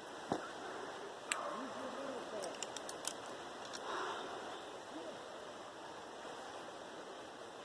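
Steady rush of river water, with a few sharp clicks and taps: one near the start, one just over a second in, and a quick run of small clicks around two and a half to three seconds in.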